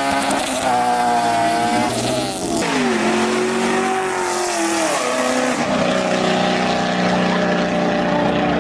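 Car engine revving hard at high rpm, its pitch held high, then dropping and climbing again about three seconds in, about five seconds in, and right at the end.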